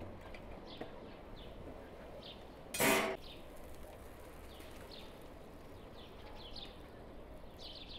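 Small songbirds chirping again and again. About three seconds in there is one brief, loud clatter.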